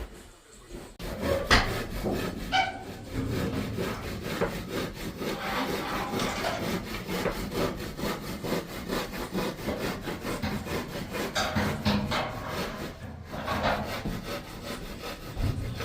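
Saw cutting in rapid, steady back-and-forth strokes. It starts about a second in and stops near the end, with a brief pause about two-thirds of the way through.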